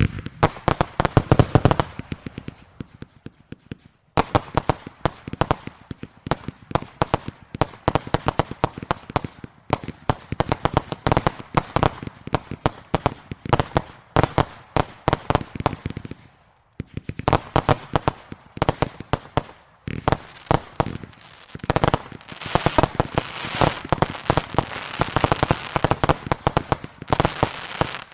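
Fireworks display: long runs of rapid, sharp bangs fired in quick succession, with brief lulls about four seconds in and again about sixteen seconds in. After about twenty-two seconds the shots come thicker, blending into a dense crackling barrage.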